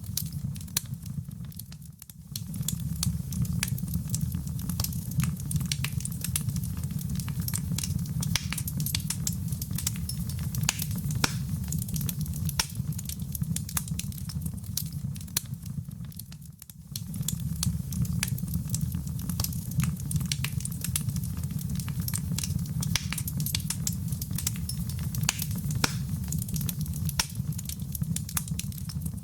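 Wood fire crackling in a fireplace: dense sharp pops and snaps over a steady low rumble of flame. The sound dips briefly twice, about two seconds in and again just past halfway.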